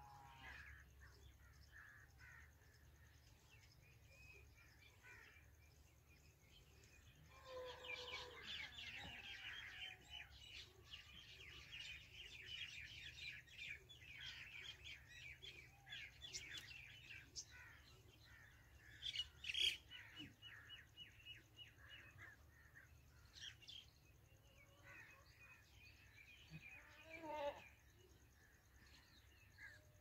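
Birds chirping in rapid, chattering runs of high calls that start about a quarter of the way in and go on past the middle, then a single sharp call and a short cluster of harsher calls near the end.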